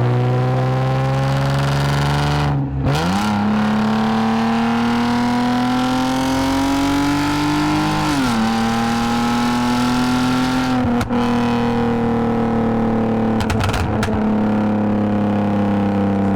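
2010 Lexus IS250 AWD's V6 with an aftermarket full exhaust and valved mufflers, accelerating through the gears. The engine pitch climbs and drops at an upshift about three seconds in, climbs again and drops at another shift around eight seconds, then holds and slowly eases off toward the end.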